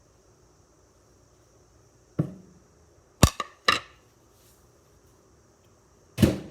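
Kitchen things being handled. A dull thump, then two sharp clinks about half a second apart, then a louder knock near the end, like a plate being set down.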